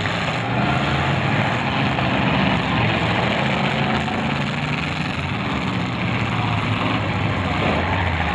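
Demolition derby cars' engines running together, a loud steady drone of several engines.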